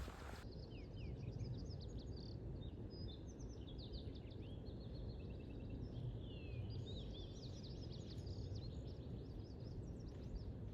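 Small birds chirping and singing, a dense run of short, quick notes, over a steady low rumble.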